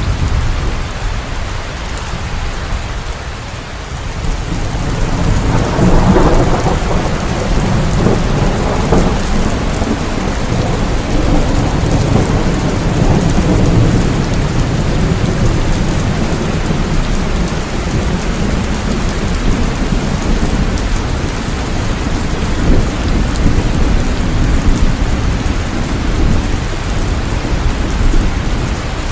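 Steady heavy rain with deep rolling thunder: the rumble swells about five seconds in and lingers under the rain.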